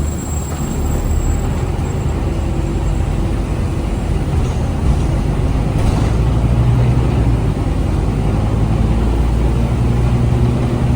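Scania K250UB city bus's Scania DC9 diesel engine running, heard from inside the bus as a steady low drone that grows louder about halfway through.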